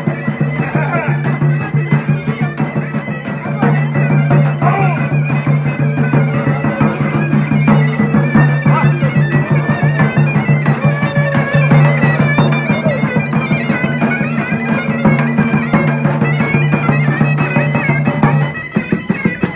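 Bagpipe playing a fast, ornamented folk tune over a steady low drone. The drone drops out near the end.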